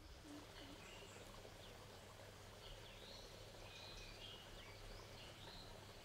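Faint birds calling: short high chirps repeating every second or so over a steady low background hiss.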